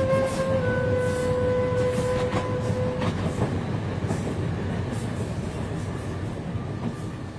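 Mumbai local train carriage running: a steady rumble with some clattering rattles. A long held tone sounds over it for the first three seconds, then fades.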